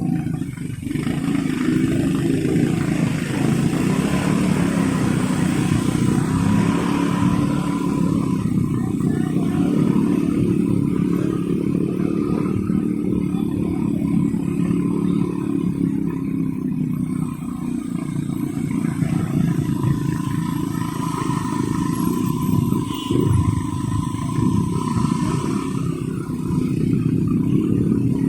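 Motorcycle engine running through traffic, its pitch rising and falling with the throttle, over the steady noise of surrounding traffic.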